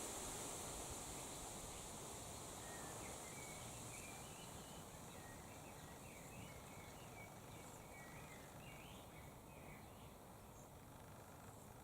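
Faint outdoor background of steady low noise that slowly fades, with distant small birds chirping in many short, quick, high notes from about two seconds in to about nine seconds in.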